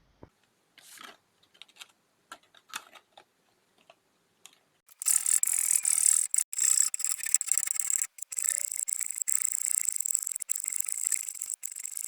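Wood being worked with a tool: a few short scrapes, then from about five seconds in a continuous hissy rasping with brief breaks.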